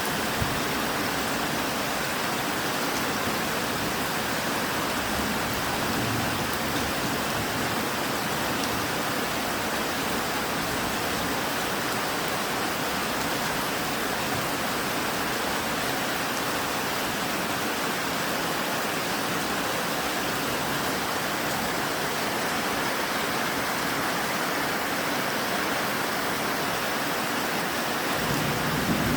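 Steady heavy rain falling, an even hiss with no breaks. A low rumble swells near the end.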